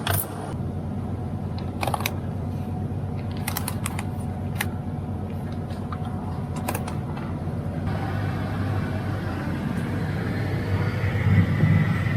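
Semi truck's Detroit DD13 diesel engine running steadily, with a few sharp clicks scattered through the first seven seconds. From about eight seconds in, a broader noise rises over the engine.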